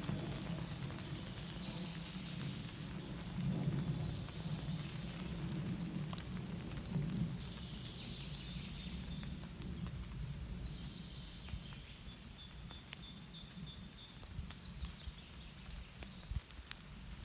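Rain-like patter of scattered small clicks over a steady hiss, with a low rumble that is strongest through the first ten seconds and then fades. Faint high chirps come in during the second half.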